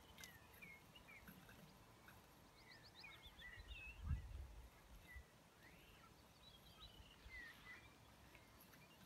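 Faint songbird chirps and twitters over near silence, with a brief low rumble about four seconds in.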